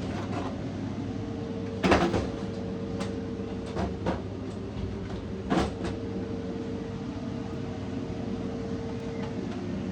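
A few short knocks and clatters over a steady low hum. The loudest knock comes about two seconds in, with smaller ones around three, four and five and a half seconds.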